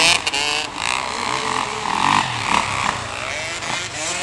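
Motocross motorcycle engines revving, several at once, their pitch rising and falling as the throttles open and close.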